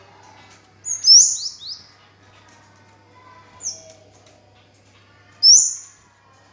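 Kemade (cigen) songbird calling with sharp, high chirps: a quick run of three or four notes about a second in, then single chirps at about three and a half and five and a half seconds.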